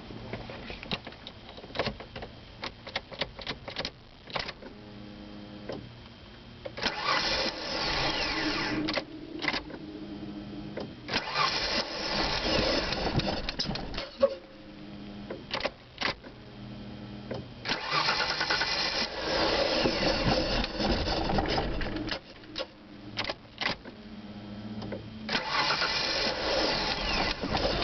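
An engine that is hard to start being cranked over and over. Four loud stretches of a few seconds each, the longest about two thirds of the way in, with quieter pauses and clicking between them.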